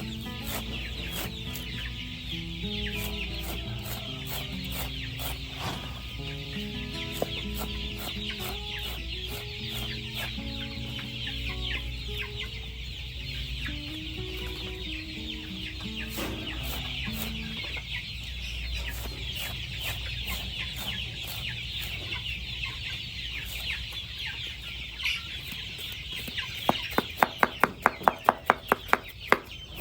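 A flock of chickens clucking and calling steadily, with soft background music in the first half. Near the end, rapid sharp knocking starts, about four strokes a second.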